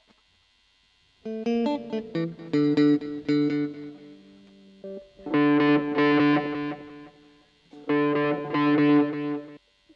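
Electric guitar through a distortion effect, played alone in a sound check: a run of picked notes beginning about a second in, then two held chords, each cut off sharply.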